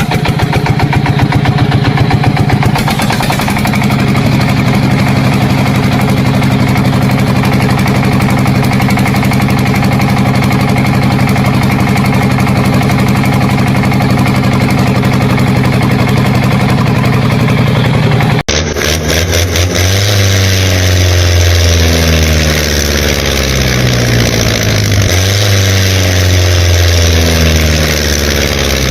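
An engine running at a steady pitch, then an abrupt change about two-thirds of the way in to an engine sound whose pitch rises and falls repeatedly, like revving.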